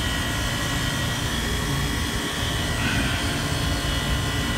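Commercial refrigeration condensing unit running steadily: its 1 hp compressor and condenser fan, a steady mechanical hum with a few thin whining tones on top. The compressor is noisy, and the technician expects it to fail soon.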